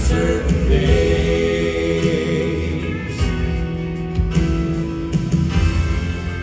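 Live southern gospel band playing an instrumental interlude between verses, with piano and a steady bass and drum beat, and a held sung note or backing vocals over it.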